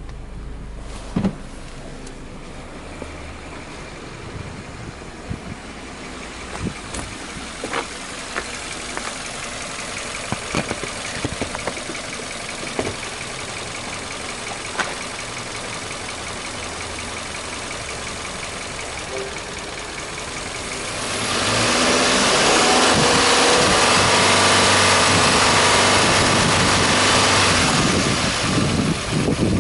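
Subaru Impreza Sport 2.0i-S's 2.0-litre flat-four boxer engine idling steadily, with a few clicks and knocks in the first half. About two-thirds through it is revved up and held at raised revs for about seven seconds, then drops back unsteadily near the end.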